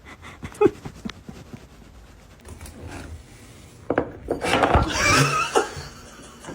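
Light knocks and clicks of hard objects, then from about four seconds in a louder stretch of clattering and rubbing.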